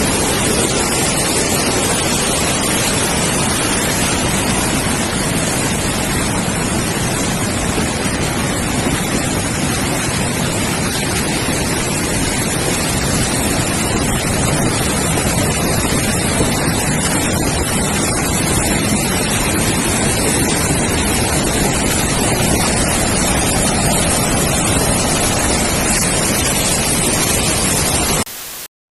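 Loud, steady rushing noise with no pattern or pitch, which cuts off suddenly near the end.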